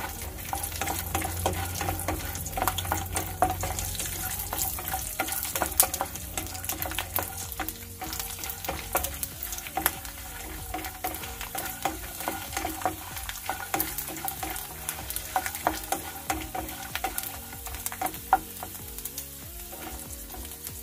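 Peanuts, cashews and garlic cloves sizzling and crackling in hot oil in a nonstick pan, stirred with a wooden spatula that knocks and scrapes against the pan, giving many sharp clicks over the steady frying hiss.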